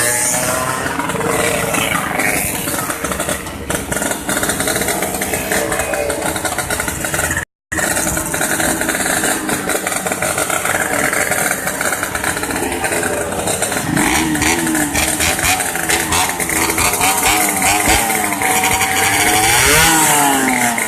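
Yamaha RX-King two-stroke single-cylinder motorcycle engine being run hard and revved, its pitch rising and falling repeatedly in the second half. The sound cuts out for a moment about seven and a half seconds in.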